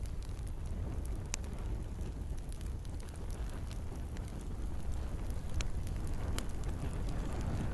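Wood campfire crackling, with a few sharp pops, over a steady low rumble and hiss of rain.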